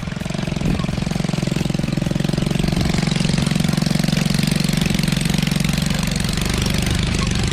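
Small motorcycle engine running steadily, its exhaust a fast, even pulsing.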